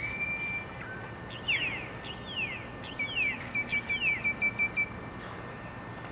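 Birds calling in the trees: a rising whistled note held briefly at the start, several quick descending slurred notes, then a fast run of short repeated chirps, about five a second, that stops a little before five seconds in.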